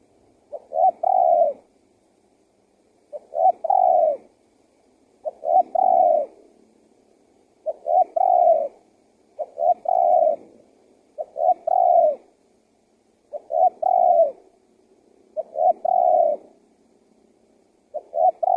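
Male spotted dove (tekukur) cooing: the same short phrase, a couple of quick notes then a longer coo, repeated about every two seconds, some nine times.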